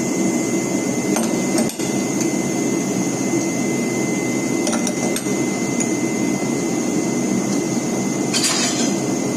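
A railway locomotive running at a standstill with a steady loud hum and a thin whine, during a locomotive change. A few sharp metallic knocks come through it, about a second in, shortly after, and twice around the middle, with a brief hiss-like burst near the end.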